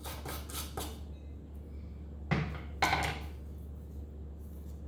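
A blade cutting and scraping through the layer of old glue and felt fibres on a wooden piano keystick, stripping off the damper felt. A few light scraping strokes come first, then two louder cracking cuts near the middle.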